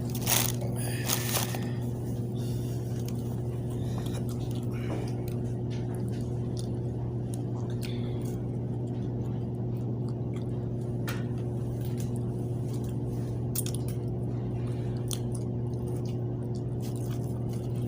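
Someone eating: chewing with a few short crisp bites and crunches, spread out irregularly. Under it runs a steady low hum.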